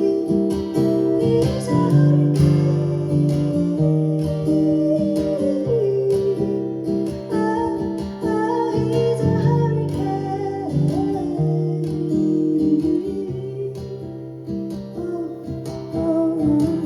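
Acoustic guitar picked and strummed, with a woman's voice singing a sustained, wavering melody over it.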